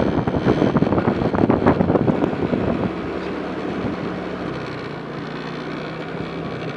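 A vehicle moving along a road: engine and road noise with wind buffeting the microphone for the first three seconds or so, then a steadier engine hum whose pitch steps down about four and a half seconds in.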